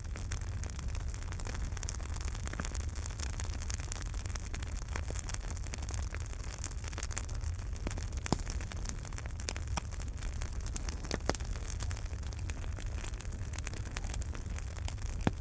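Wood fire burning in a fireplace: a steady low rumble and hiss with scattered crackles and pops, a few sharper pops standing out.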